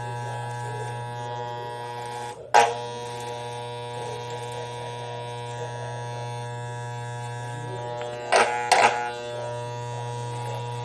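Electric shaver running with a steady buzz, broken by a short, loud, sharp sound about two and a half seconds in and two more in quick succession near the end.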